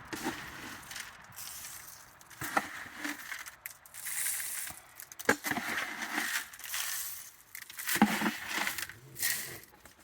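Raccoons eating, crunching and chewing food, with scattered sharp clicks and crackles throughout.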